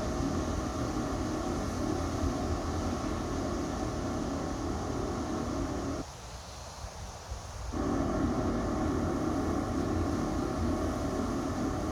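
Steady mechanical hum of many held tones over a low rumble. About six seconds in, the middle of the sound drops out for under two seconds, then comes back.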